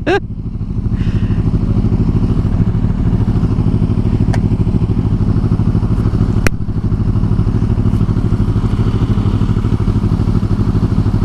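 Motorcycle engine idling steadily, with no revving. There is one sharp click about six and a half seconds in.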